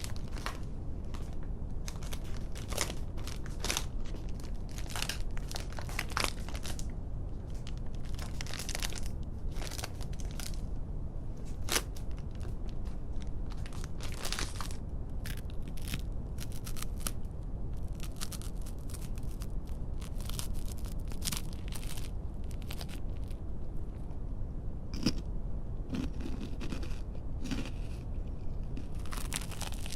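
Close-miked ASMR crunching and crackling: something dry and crisp being crushed and crinkled, in dense, irregular crackles.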